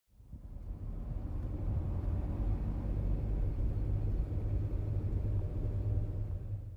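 Steady low rumble of a vehicle in motion, with a soft hiss above it, fading in over the first second and cutting off abruptly at the end.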